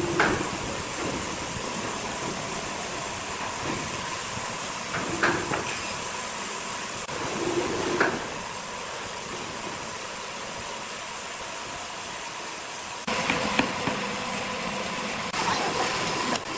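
Sawmill machinery running with a steady hiss and a faint steady hum, broken by a few knocks. It grows louder and more clattery near the end.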